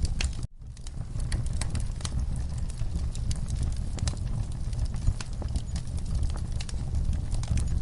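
Wood fire in a fireplace crackling, with irregular sharp pops and snaps over a low steady roar of flame. The sound cuts out for an instant about half a second in, then resumes.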